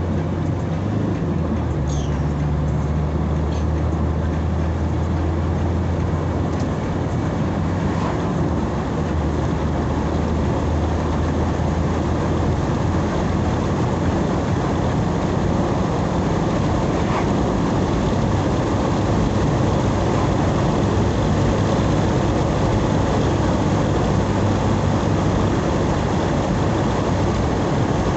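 Car driving on the road: steady engine hum and road noise, the engine's low drone easing off partway through and building again later.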